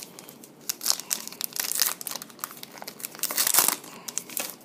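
Trading-card pack wrappers being torn open and crinkled by hand: irregular crackling and tearing, loudest a little past the middle.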